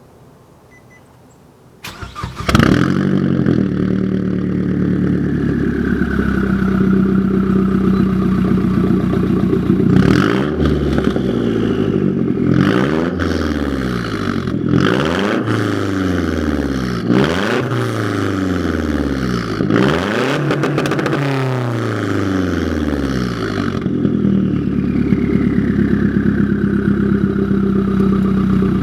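2009 Mazdaspeed3's turbocharged 2.3-litre four-cylinder with a straight-piped 3-inch turbo-back exhaust, starting up about two seconds in and settling to idle with a whistle falling in pitch. Midway it is revved five or six times in a row, each rev rising and falling over a couple of seconds, then it drops back to idle with the same falling whistle.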